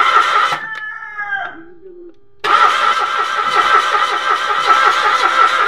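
Starter motor cranking a Mitsubishi Mirage's engine in a fast, even rhythm without it catching: the car cranks but won't start. The first crank stops about half a second in, a rooster crows in the gap, and a second crank begins about two and a half seconds in.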